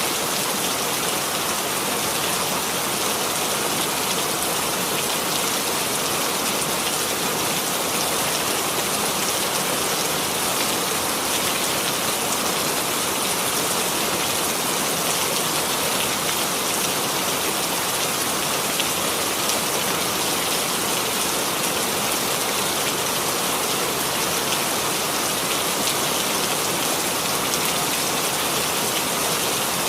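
Steady rainfall: an even hiss of rain with fine patter of drops on a surface, unchanging throughout.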